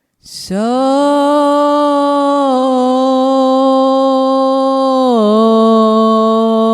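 A voice chanting one long held tone, sliding up into the note as it starts and stepping down to a slightly lower pitch about five seconds in.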